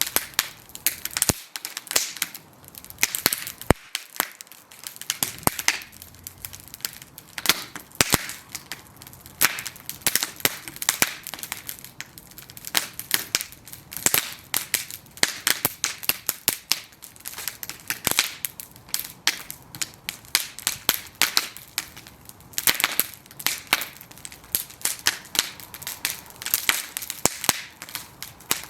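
Bonfire of burning wooden planks crackling, with dense, irregular sharp pops and snaps.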